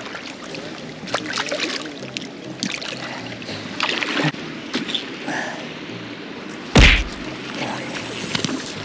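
River water running, with scattered short knocks and one loud thump about seven seconds in.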